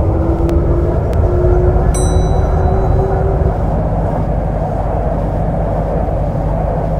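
MTR Kwun Tong Line C-Train running, a steady rumble with a rising traction-motor whine over the first three seconds or so as it gathers speed. A short, high chime rings once about two seconds in.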